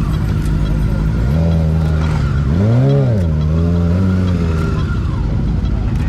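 Motorcycle engine running at a steady pace, then revving up and easing back down about three seconds in.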